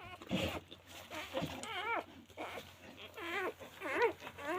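Newborn American bulldog puppies whimpering: several short, warbling high cries, one after another.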